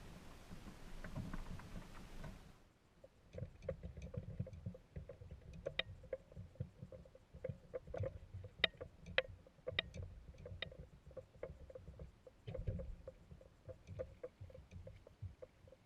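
Faint small clicks, knocks and low water thumps from a fishing kayak and its gear on the water. A steady hiss cuts off about two and a half seconds in.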